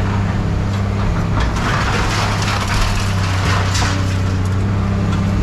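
Heavy scrap-handling machine's engine running steadily under load, with scrap metal crunching and rattling through the middle few seconds.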